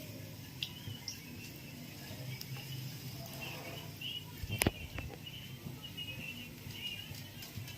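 Birds chirping faintly and repeatedly in the background, with one sharp click about four and a half seconds in.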